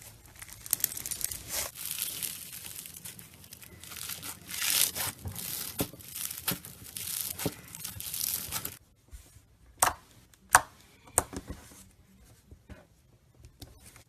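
Slime being stretched and worked by hand, with a dense crackling, tearing hiss for about nine seconds, then a few sharp pops and clicks.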